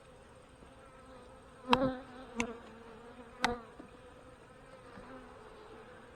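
Honey bees buzzing steadily around an opened hive, with three sharp knocks between about one and a half and three and a half seconds in, the loudest sounds.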